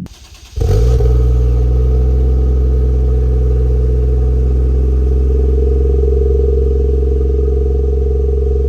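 Toyota Soarer's 1JZ-GTE turbocharged straight-six idling steadily through a newly fitted Exos Evo aftermarket exhaust. The engine cuts in about half a second in and holds a loud, even note.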